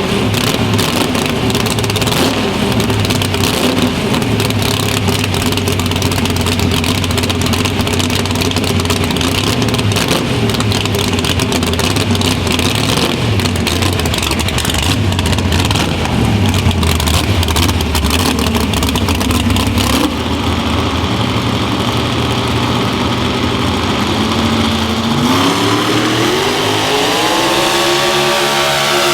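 A pulling vehicle's engine runs loud and hard at high revs, its pitch wavering, through a long pull. About 20 s in it eases a little, and near the end its pitch climbs steadily as it revs up.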